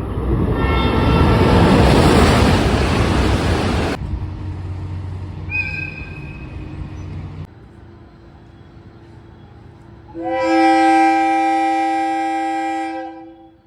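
Train horns in separate clips. First a loud passing-train roar with a horn tone inside it, then a brief high-pitched toot about six seconds in. Near the end comes one steady horn blast of about three seconds.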